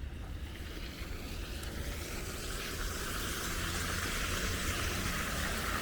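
Wind buffeting the camera microphone as a steady low rumble, over a hiss that grows louder from about halfway in.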